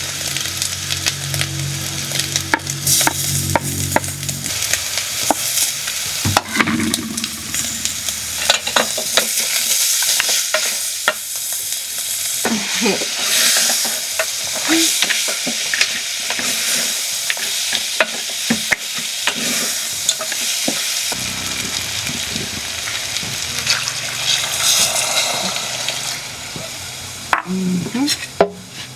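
Food frying and sizzling in a hot pan, with frequent clicks and scrapes of a utensil stirring it. A low steady hum sits under it for the first few seconds and again through the last third.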